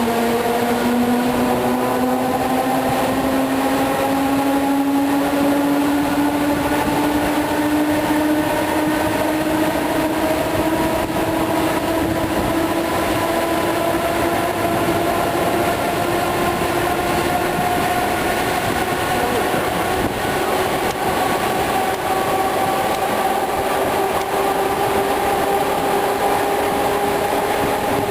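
ER2R electric multiple-unit train running, heard from inside the carriage: the traction motor whine rises slowly and steadily in pitch as the train picks up speed, over the constant rumble of wheels on the rails.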